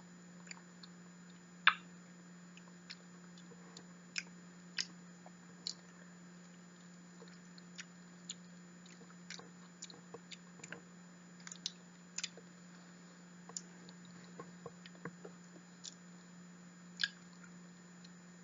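Close-miked mouth sounds of someone eating soft, mushy durian flesh: quiet wet clicks and smacks scattered through the chewing, a sharper one about two seconds in and another near the end, over a steady low hum.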